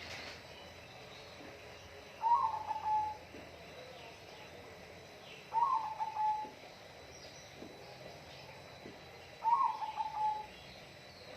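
A bird calling three times, about three and a half seconds apart. Each call lasts about a second, with a stuttering start, and falls slightly in pitch.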